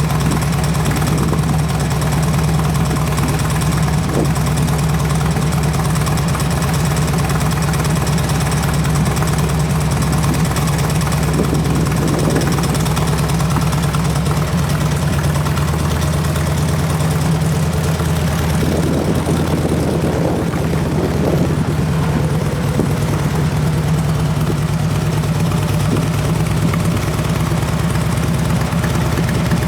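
2008 Harley-Davidson Electra Glide Classic's Twin Cam 96 V-twin idling steadily through open slip-on mufflers.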